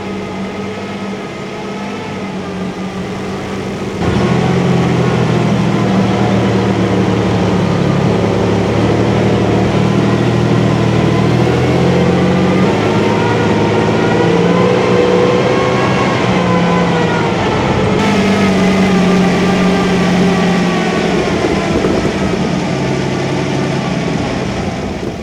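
Cromwell tank's 27-litre Rolls-Royce Meteor V12 petrol engine running under way, its note rising and falling with the throttle. The sound jumps abruptly louder about four seconds in and changes again later on.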